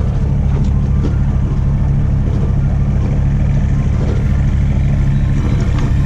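Truck engine running steadily, a constant low hum.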